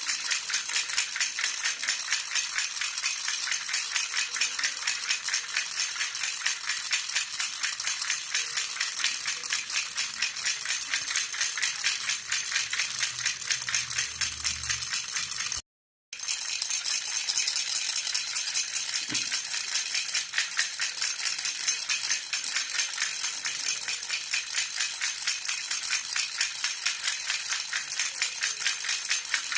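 Jhunjhuna baby rattle shaken continuously, a rapid, even shimmer of small beads clicking against the shell. It breaks off completely for about half a second midway, then carries on as before.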